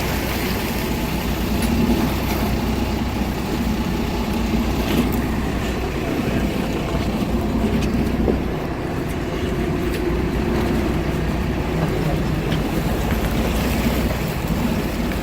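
A boat's engine running steadily, with a low hum, over wind and water noise.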